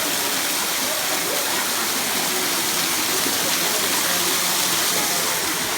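Steady rushing noise like running water, even and unbroken, with faint voices in the background.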